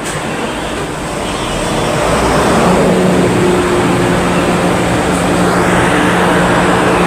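Steady mechanical hum with a low drone, building up over the first two to three seconds and then running evenly.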